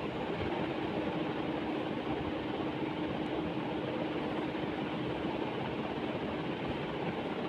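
Steady whooshing background noise with a constant low hum, like a running fan or similar machine.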